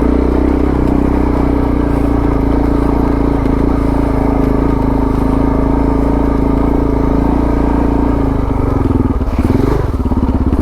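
Suzuki DR650's single-cylinder four-stroke engine running steadily as the dual-sport bike climbs a dirt track, its note dipping and picking up again briefly near the end.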